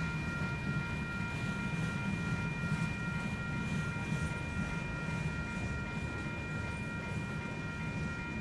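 Freight train of open-top hopper cars rolling past at steady speed: a continuous low rumble of wheels on rail. A steady high-pitched whine runs alongside it.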